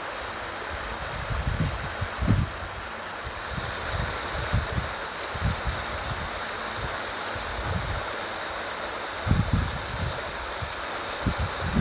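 Waterfall water rushing steadily, with irregular low thumps of wind buffeting the microphone, the strongest about two seconds in and again around nine to ten seconds in.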